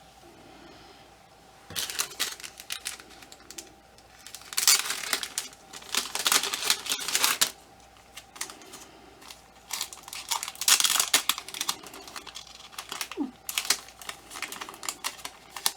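Small doll outfit and armor pieces being handled and fitted onto a ball-jointed doll: irregular clicking and rustling that starts about two seconds in, in uneven bursts.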